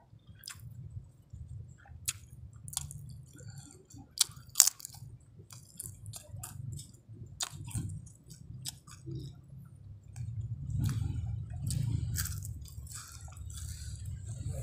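Close-up chewing and crunching of nasi Padang eaten by hand, with many sharp crunchy clicks over a low steady hum.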